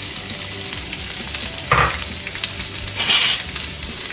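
Diced onions and green chillies sizzling as they hit hot coconut oil with tempered mustard seeds in a frying pan. There is a steady sizzle with two louder bursts, one a little before halfway and one about three seconds in.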